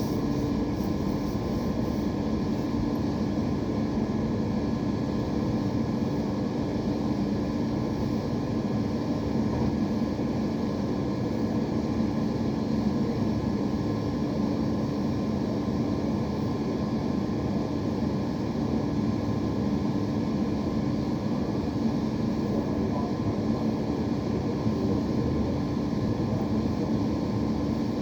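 A steady mechanical hum with a rushing noise, holding a constant low drone.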